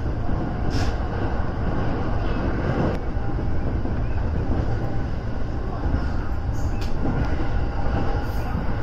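Electric commuter train running along the track, heard from inside the front car: a steady rumble of wheels on rail, with a few short high hisses.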